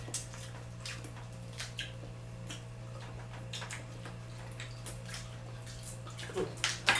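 Wet eating sounds of a seafood mukbang: scattered sharp clicks and crackles of a mouth and hands working on seafood, with a louder click near the end, over a steady low hum.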